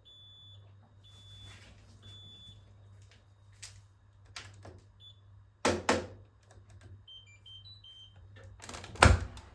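Hoover H-WASH 500 washing machine beeping three times, about a second apart, at the end of its wash cycle. Two loud clicks follow, then a quick run of short beeps at different pitches, and a heavy thump near the end.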